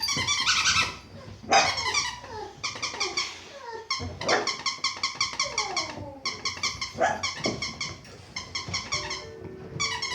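Boxer puppies playing with a squeaky toy: the toy squeaks in quick repeated runs as they chew it, mixed with puppy growls and yips.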